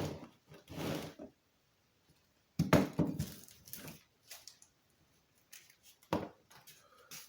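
Scattered knocks and rustles of parts and packaging being handled, with a cluster of louder clatters about two and a half seconds in and a sharp knock about six seconds in.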